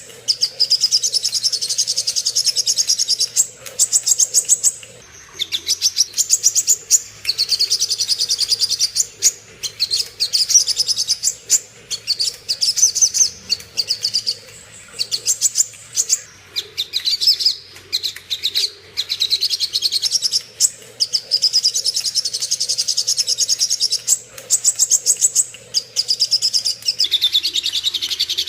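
A sogon songbird singing its fighting song: fast, rattling runs of high chirps in phrases of one to three seconds, with short pauses between them.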